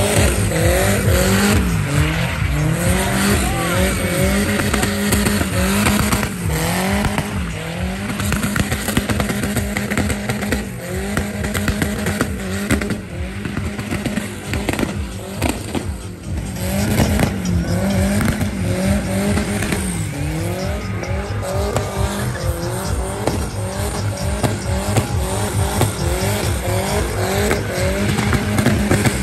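Chevette with a swapped VW AP 1.8 engine doing burnouts and donuts: the engine is held at high revs, dipping and climbing again now and then, over the squeal of spinning rear tyres.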